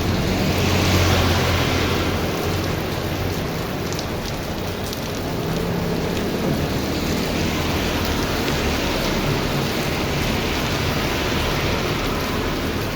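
Heavy rain pouring steadily in strong wind, with a low rumble that swells about a second in and then eases.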